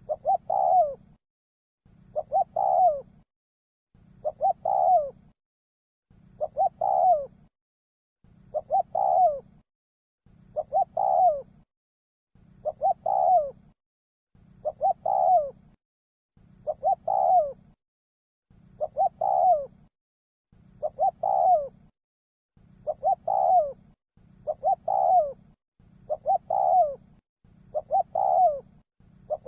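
Spotted dove cooing: the same call phrase, a couple of short notes then a longer coo, repeats identically about every two seconds with dead silence between.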